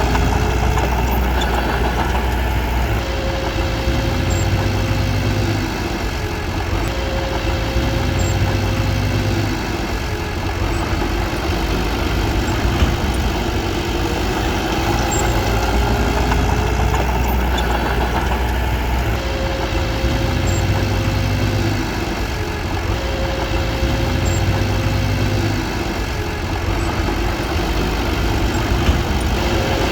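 Diesel engine of a Komatsu D21P bulldozer running steadily, its note shifting up and down every few seconds as the load changes.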